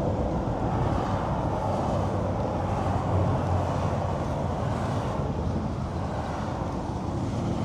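Steady running sound of a 2018 Infiniti Q60's twin-turbo VR30DDTT V6 idling, an engine logged with random misfires and bank 2 camshaft timing over-retarded.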